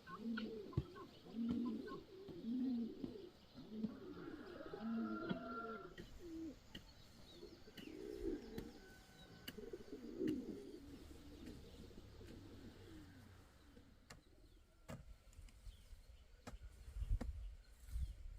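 A bird cooing over and over in low calls, about one a second, for the first ten seconds or so, then fading. A few sharp clicks sound near the end.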